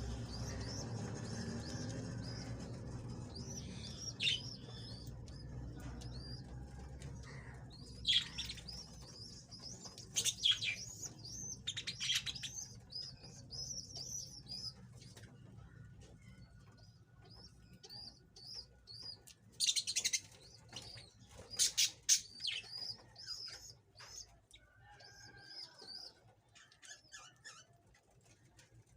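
Budgerigars chirping and warbling in continual chatter, with a handful of louder, sharp calls at intervals.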